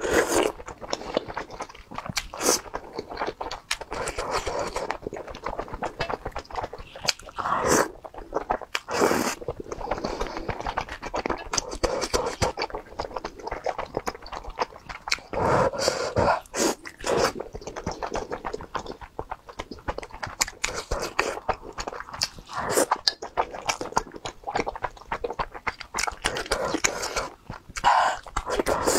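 Close-miked chewing of tteokbokki, chewy rice cakes in spicy sauce, with wet mouth clicks and smacks, and the spoon and chopsticks scraping and clicking now and then.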